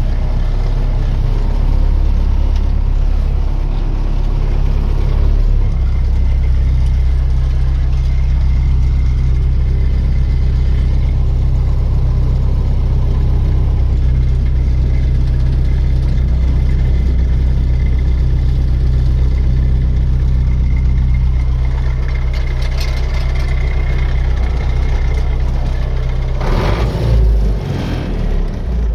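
Tractor engine running steadily. Its note changes about six seconds in, and there is a brief clatter near the end.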